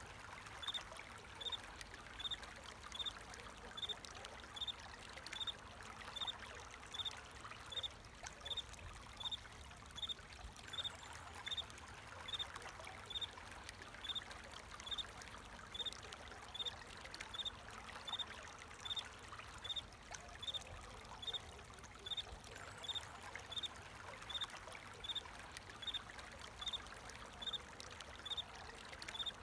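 A cricket chirping in a slow, even rhythm, a little more than one short high chirp a second, over the steady sound of flowing water.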